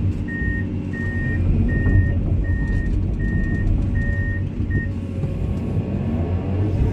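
Komatsu excavator's diesel engine running steadily while its travel alarm beeps seven times, about one beep every three-quarters of a second, then falls silent about two-thirds of the way through.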